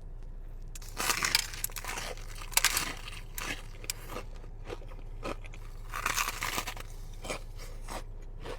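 Close-miked biting and crunchy chewing of sushi, likely a hot-Cheeto-crusted spicy tuna roll, in irregular crunches that come in louder clusters about a second in, near three seconds and around six seconds.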